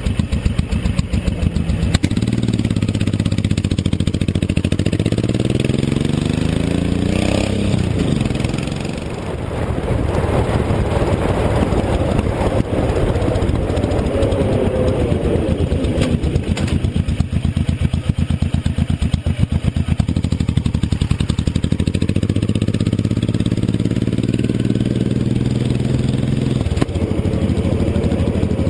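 Motorcycle engine running on the move. Its pitch climbs for several seconds, drops sharply about seven or eight seconds in, and climbs again later on as the bike speeds up and eases off.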